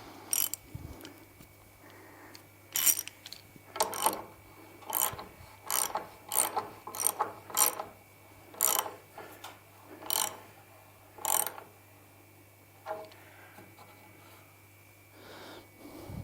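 Socket ratchet tightening a dynabolt: about a dozen short bursts of ratcheting clicks at uneven intervals, stopping about two-thirds of the way through.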